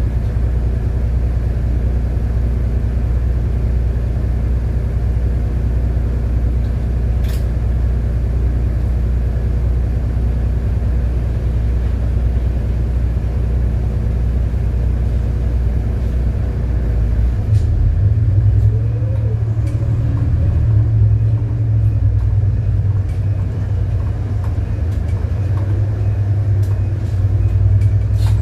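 City bus engine running with a steady low drone, heard from aboard the bus. About two-thirds of the way in, the drone steps up in pitch as the engine changes speed. There is a single sharp click about 7 s in and a few more near the end.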